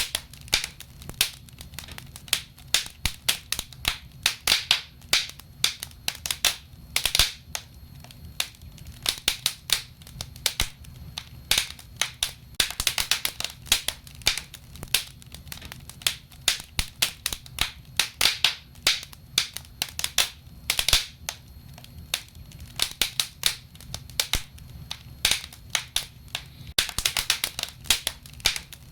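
Wood fire burning in a fireplace, crackling with frequent sharp pops and snaps at an irregular pace, some coming in quick clusters, over a low steady rumble.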